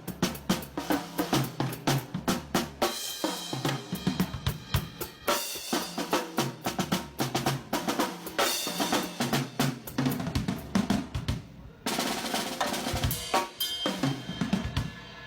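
Drum kit played hard and fast, with rapid snare and bass drum hits and repeated cymbal crashes.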